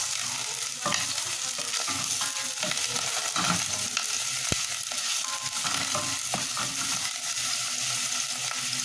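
Food sizzling in a pan over a strong flame while it is stirred, with a steady frying hiss and irregular scrapes and knocks of the cooking utensil against the pan.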